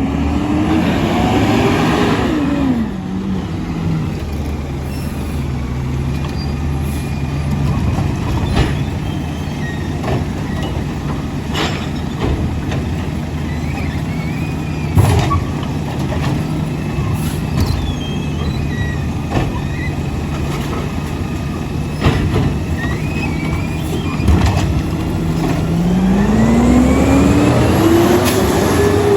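Garbage truck's diesel engine running steadily, revving up and back down right at the start and again near the end, with several sharp knocks and clanks in between.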